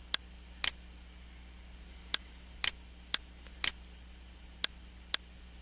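Computer mouse button clicking, about nine sharp clicks at uneven intervals, three of them quick double-clicks, over a faint steady electrical hum.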